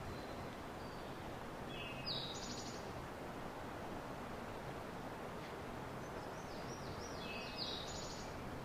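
A small songbird sings two short, high phrases: one about two seconds in, and a longer one with swooping notes near the end. Steady outdoor background noise runs underneath.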